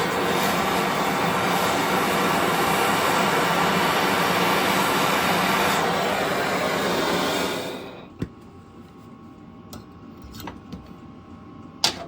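Gas heating torch burning with a steady roar while a steel bar is heated for bending, shut off about eight seconds in. Afterwards a few light clicks and a sharp metal knock near the end.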